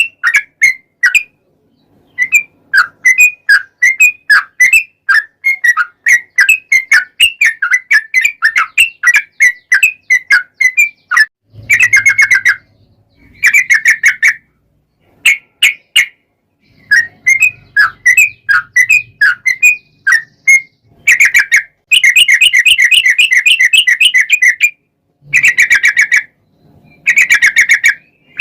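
Sooty-headed bulbul (trucuk) singing loudly: quick runs of chirping whistled notes, then several fast rattling trills in the second half, with short silent gaps between phrases.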